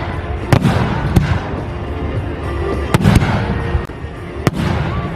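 Aerial fireworks going off: about five sharp bangs, two of them close together near the middle, over steady crackling from the bursting shells.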